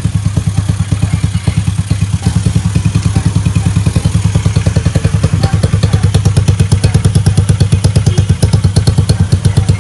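Tuned '62'-type horizontal single-cylinder motorcycle engine idling steadily through its chrome exhaust, a fast, even putter. The idle is very gentle and smooth, as tame as a stock engine.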